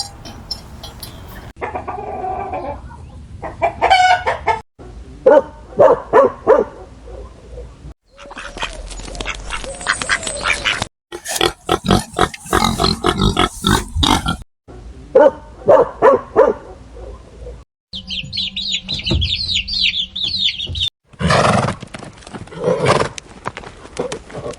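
A run of short, abruptly cut clips of farmyard animal calls, mostly chickens clucking and a rooster crowing, one clip after another.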